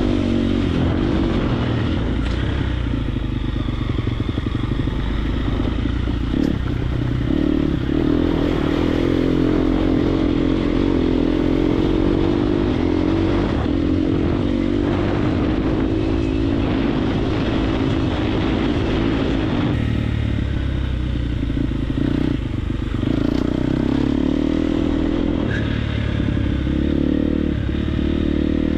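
Triumph TF250X dirt bike's 249cc single-cylinder four-stroke engine running hard under riding load, its revs rising and dropping with short breaks as the throttle and gears change, heard from the rider's helmet microphone.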